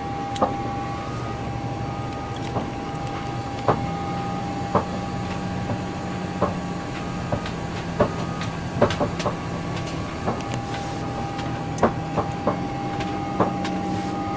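Airliner flight-deck noise: a steady low hum and a steady high whine from the aircraft's running systems, with irregular sharp clicks and knocks through it.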